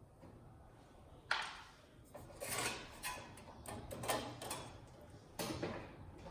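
Parts of a flat-screen TV being handled during disassembly: a sharp click about a second in, then a couple of seconds of scraping and rattling knocks, and another knock near the end.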